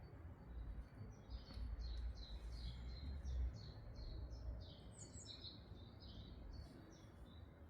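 A small bird singing a quick run of short, high chirping notes, over a low rumble that fades out about halfway through.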